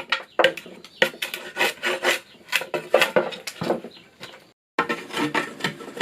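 A hand tool working wood in quick repeated scraping strokes, about two to three a second, with a brief dropout a little before the end.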